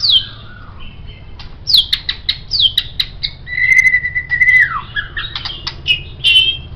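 White-rumped shama (murai batu) singing a varied song of quick downward-sliding whistles and sharp clicks. Midway it holds one whistled note for about a second, then lets it fall, and short trilled notes follow near the end.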